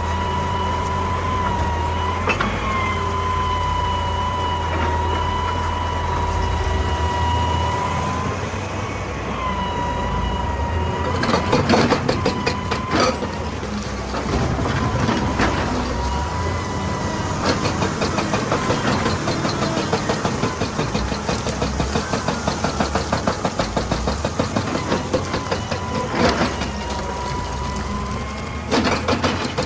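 Excavator's diesel engine running under load with a steady high hydraulic whine, broken by a few loud knocks about eleven to thirteen seconds in. Later the engine settles into a fast, even pulsing.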